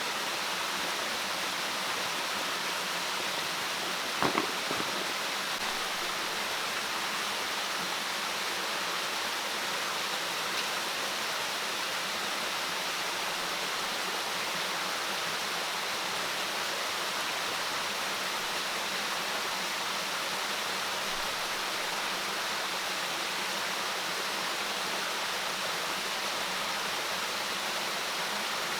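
Steady rushing of water, an even hiss without let-up, with a single short knock about four seconds in.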